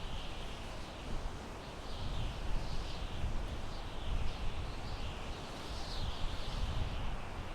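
Wind blowing through pine trees: a steady rush with a gusting low rumble, and repeated high chirps running through it.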